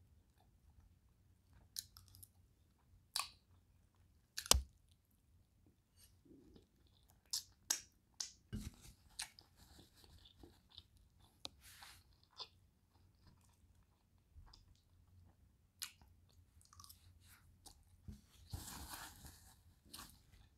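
Close-up chewing and wet mouth smacks of someone eating turkey leg meat and rice, with scattered sharp clicks, the loudest a little over four seconds in. Near the end a paper napkin rustles against the mouth.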